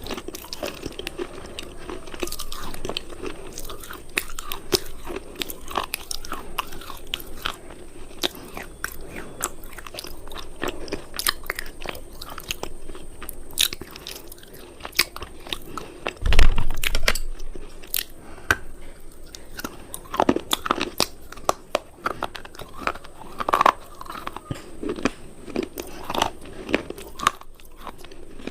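Crunchy cubes being bitten and chewed close to the microphone: a dense, irregular run of sharp cracks and crunches. About halfway through there is a loud, low thump.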